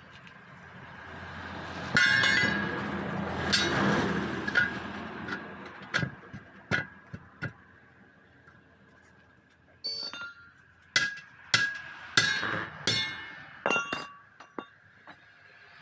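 Irregular hammer blows on the steel rim of a truck wheel, each strike ringing briefly, during tyre fitting. About two seconds in there is a rougher stretch of metal scraping and clatter before the separate strikes.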